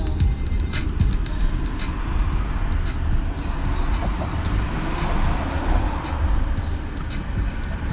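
Holden VL Commodore Turbo being driven, heard from inside the cabin: a steady rumble of the turbocharged straight-six and tyre noise, with scattered light clicks and knocks.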